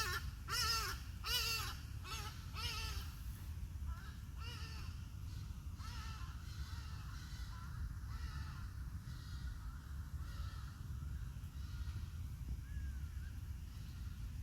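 A bird calling in a run of repeated calls about every 0.7 s, loudest over the first three seconds, then fainter calls continuing at intervals, over a steady low rumble.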